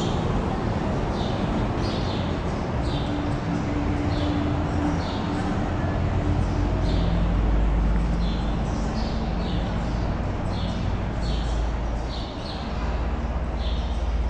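Steady rushing noise with a low rumble, with a bird chirping over it in short high chirps a little over once a second.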